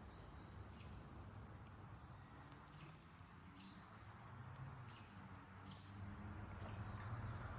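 Faint crickets: a steady high trill, with a short chirp about every two seconds, over a low hum.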